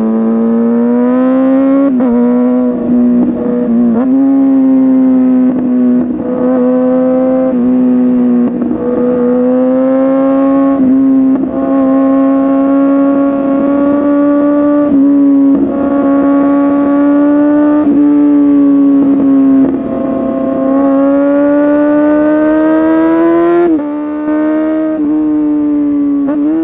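Kawasaki ZX-6R (ZX636) inline-four sport bike engine through an SC-Project exhaust, held at high revs while riding. The pitch climbs steadily and then drops suddenly at each gear change or throttle lift, again and again.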